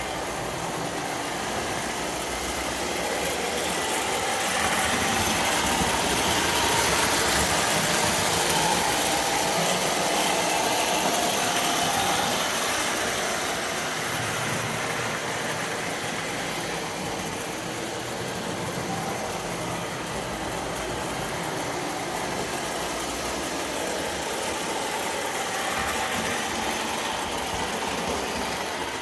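Lionel 746 O-gauge toy steam locomotive running on tinplate track with a train of cars: a steady electric motor hum and the rattle of wheels on the rails. It grows louder from about four seconds in, as if passing close, and eases back after about twelve seconds.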